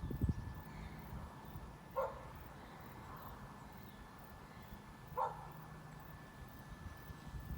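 A dog barking twice, two short barks about three seconds apart, faint against a low steady background.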